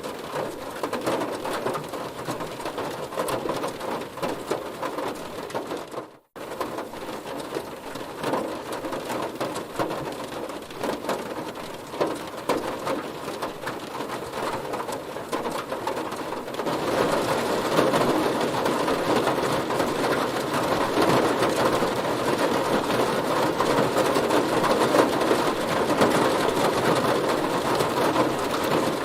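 Heavy rain drumming on a car, a dense patter of drops. It cuts out for an instant about six seconds in, and grows louder just past the halfway point.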